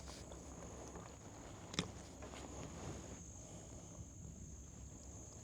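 Quiet outdoor background with a faint, steady high-pitched hum, and a single sharp click about two seconds in.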